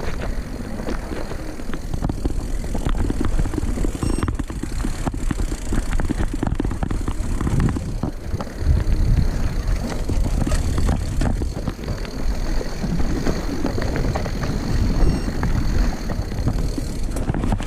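Mountain bike rolling over a rough forest trail: a steady low rumble of tyres and wind on the microphone, with frequent clicks and rattles from the bike.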